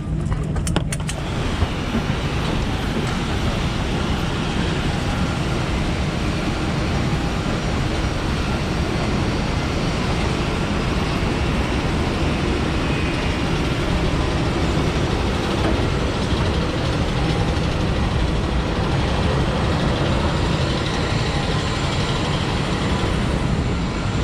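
Steady loud rushing noise of a busy airport apron around a parked airliner, with a few sharp clicks right at the start.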